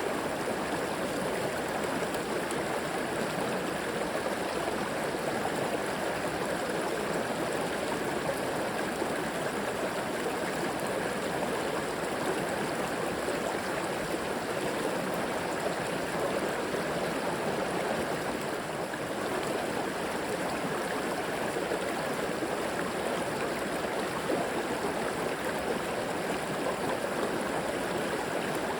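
Flowing river water running and gurgling over rocks, a steady, even rush.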